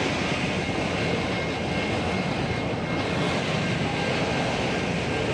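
Long freight train's loaded wagons rolling steadily past on the track, a continuous rumble of wheels on rail with faint steady high tones above it.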